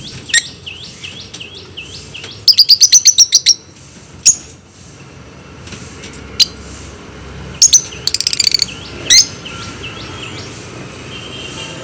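Lovebirds chirping: sharp, high calls, with a rapid run of about eight chirps a few seconds in and another quick run about eight seconds in, over softer chirping throughout.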